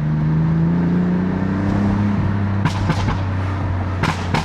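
BMW F80 M3's twin-turbo S55 inline-six heard through its exhaust, rising in pitch under acceleration for about two seconds, then falling as the revs drop. A few sharp exhaust crackles follow in the second half, the pops and burble of a tuned exhaust on lift-off.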